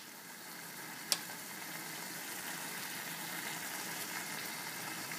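Chopped onion-tomato masala sizzling gently in oil in a steel wok, a steady frying hiss, with one sharp click about a second in.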